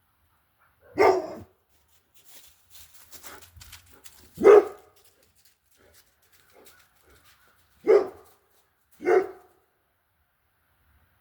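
A dog barking four times, single barks spaced a few seconds apart, the last two close together.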